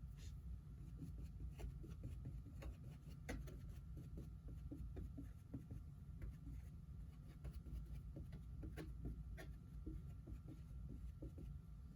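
Paintbrush dabbing and stroking acrylic paint onto a canvas: faint, irregular little taps and scrapes of the bristles, over a steady low room hum.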